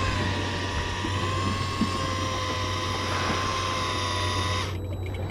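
Electric fishing reel motor winding in line under load: a steady high whine that cuts off abruptly near the end as the reel stops. A low steady hum runs underneath.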